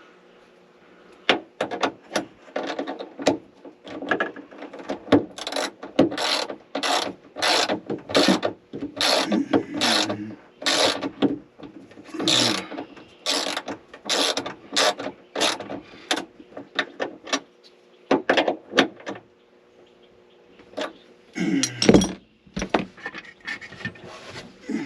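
Hand ratchet wrench clicking in quick repeated strokes, about two a second, as it tightens a nut onto a stud. The strokes stop about two-thirds of the way through, then come back in two short bursts near the end.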